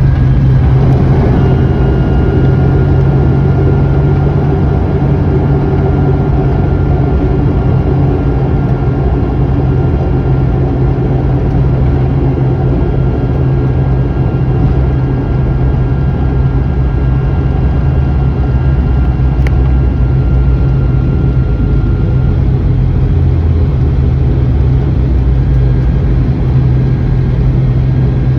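Airliner engines heard from inside the passenger cabin during landing: a loud, steady drone with a strong low hum and a few faint, thin whine tones above it.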